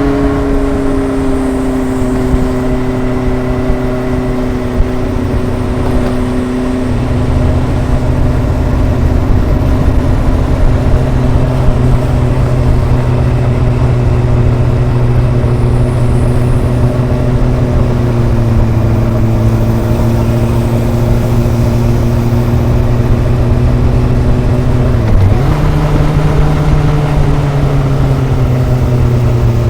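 Kawasaki ZRX's inline four-cylinder engine and exhaust under way on a road ride, holding a steady note with a slowly sagging pitch. Near the end the pitch dips sharply and picks up again at a new level.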